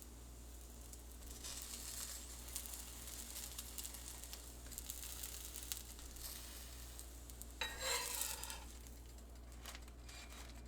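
Zucchini fritters frying in hot oil in a pan: a steady crackling sizzle that flares louder for about a second, about eight seconds in.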